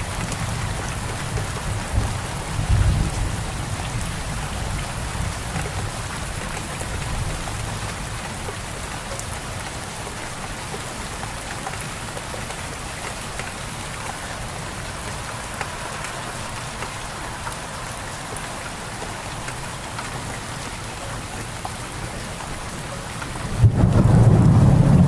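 Steady rain falling with thunder: low rumbling in the first few seconds that dies away, then a sudden loud rumble of thunder near the end.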